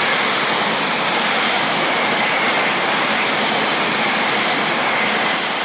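Northern class 331 CAF Civity electric multiple unit going past close by: a steady loud rush of wheel and air noise with a faint high whine.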